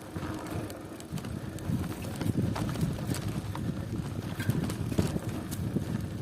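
Bicycle riding: a steady, uneven rumble from the rolling bike, with scattered sharp clicks and rattles.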